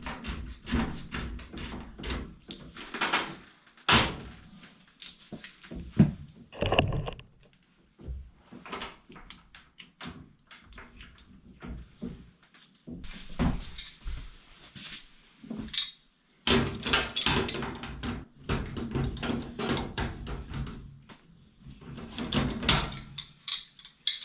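Irregular knocks, clunks and scrapes of hands and tools working at the washer's fittings, with a few louder thumps, as a tight hose connection is being loosened.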